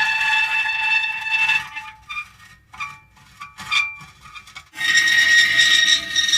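Metal creaking: a drawn-out, high-pitched creak that breaks up about two seconds in into a few short squeaks, then starts up loudly again near the end.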